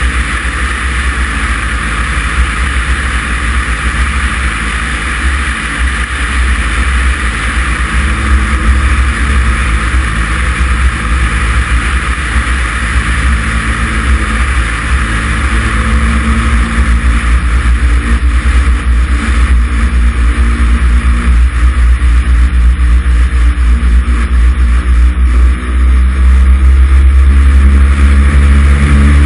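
Cessna 140's piston engine and propeller running steadily, a low drone with a hiss of airflow over it. The sound grows louder through the second half, with a brief dip near the end before it comes back stronger.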